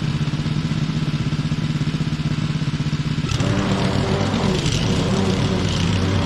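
Petrol mower engine running steadily; its note changes about three seconds in.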